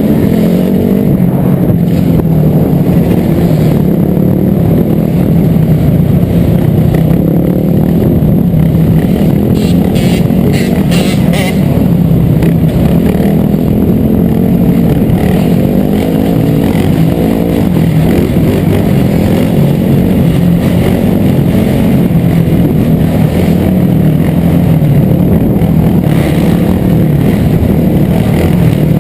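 Dirt bike engines running loud and steady, their pitch wavering up and down as the riders rev. A few brief high ticks come about ten seconds in.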